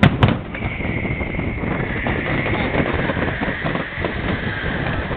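Fireworks going off: two sharp bangs in quick succession at the start, then a steady dense crackle, with a long high whistle that slowly falls in pitch and stops near the end.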